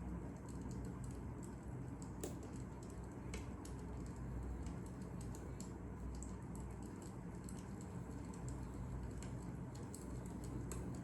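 Fire crackling: a steady low rumble of flames with many small irregular crackles and two sharper pops about two and three and a half seconds in.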